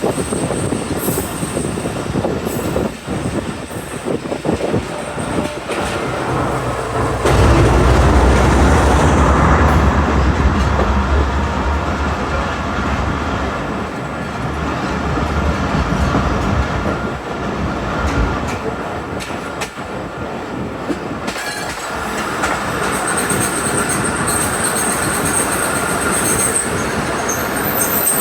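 Train running past on the rails: steady wheel rumble and clatter. A heavy low engine drone comes in loud at about seven seconds and fades out around eighteen seconds, as the locomotive passes. A thin high wheel squeal is heard near the end.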